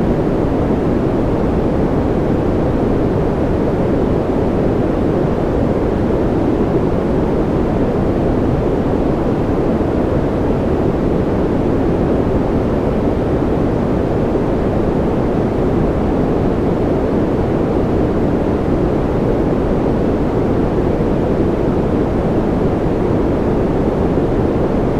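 Steady, unbroken noise track of the kind used for sleep and concentration. It is deep and rushing, with most of its weight low and little hiss on top, and it never changes.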